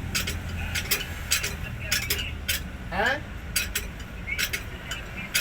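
Metal tools clinking and tapping: a string of sharp, irregular clicks over a steady low hum, with a brief rising tone about three seconds in.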